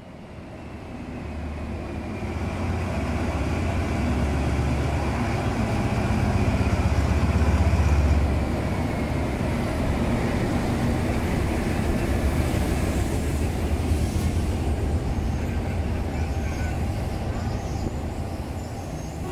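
Diesel locomotive hauling a passenger train along a station platform: its engine drone grows louder over the first few seconds and is loudest as the locomotive goes by about eight seconds in, then the coaches follow with a steady rumble of wheels on the rails.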